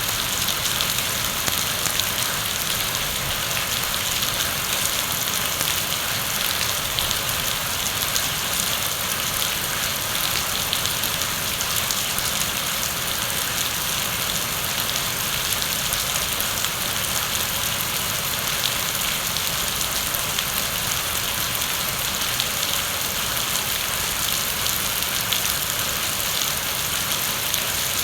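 Heavy rain falling steadily, a dense even hiss with fine crackle of drops hitting a surface.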